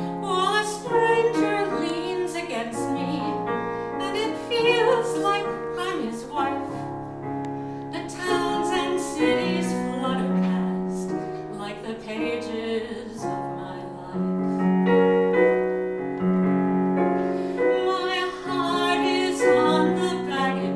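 Electronic keyboard playing a slow instrumental introduction, piano-like chords over sustained held notes and a steady bass line.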